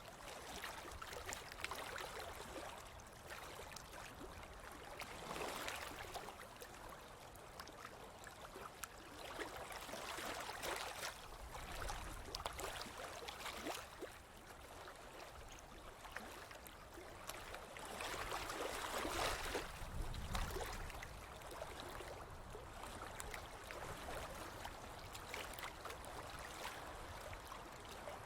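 Ocean waves washing onto a beach, a steady hiss that swells and ebbs every few seconds, with the biggest surge a little past the middle.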